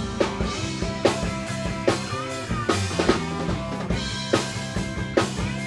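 Rock band playing an instrumental passage with no vocals: drum kit with snare and bass drum hits over bass and guitars.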